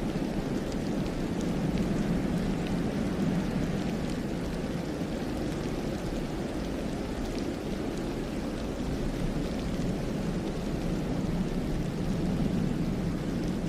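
Steady low rush of wind through pine trees in heavy snow, swelling slightly a couple of times, with faint light ticks over it.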